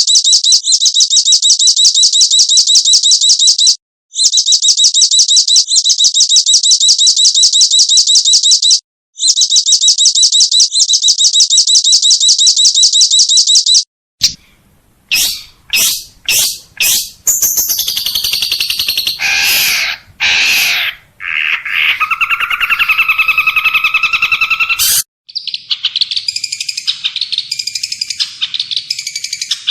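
Recorded songbird calls spliced one after another. First come three long phrases of a very fast, even, high trill. After an abrupt cut there are separate sharp chirps and buzzy, wavering calls, and about 25 seconds in another cut brings a different chattering song.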